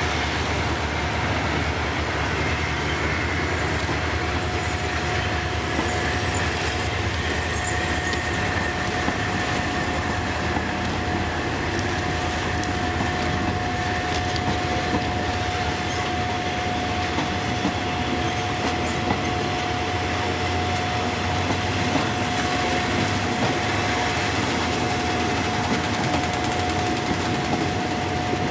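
Express passenger train pulling out of the station, its wheels rolling steadily along the rails with faint clicks over the joints and a steady high-pitched tone.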